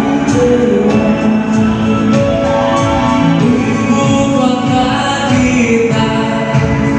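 Live band playing through a PA system with a singer, during a sound check.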